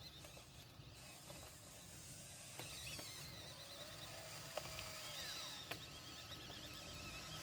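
Small electric motors and plastic gearing of a radio-controlled model construction vehicle whirring faintly, with a few sharp clicks.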